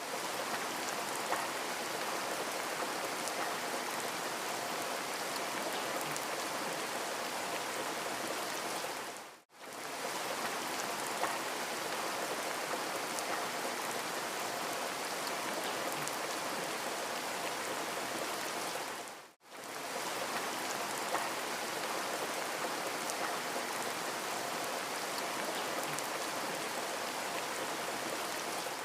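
Steady rain falling, an even hiss of drops with a few louder single drops, that fades out to silence and straight back in twice, about every ten seconds.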